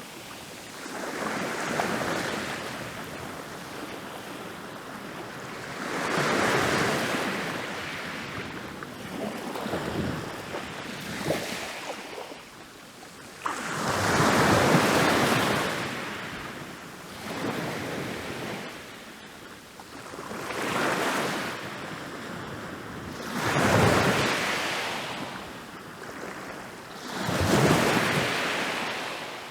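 Ocean waves breaking and rolling onto a beach, each surge of surf swelling and then washing away, about every three to five seconds.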